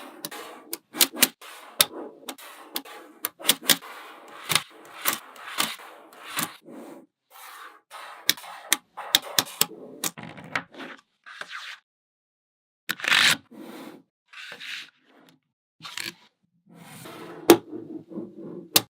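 Small magnetic balls clicking together and scraping against each other as they are pushed into place, in an irregular run of sharp clicks with a louder rubbing burst about two-thirds of the way through.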